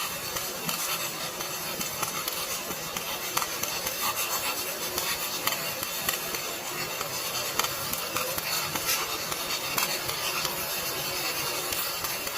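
Electric arc welding: a steady crackling sizzle from the arc, dotted with small pops and clicks.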